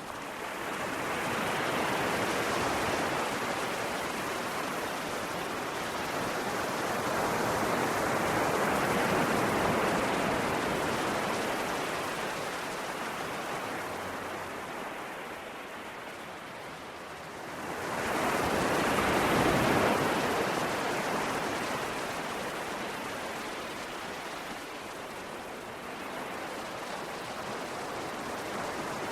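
Ocean waves breaking and washing on the shore in slow surges: one swell early on, a longer one about a third of the way in, and a sharper, louder wave breaking about two-thirds of the way through, each ebbing away between.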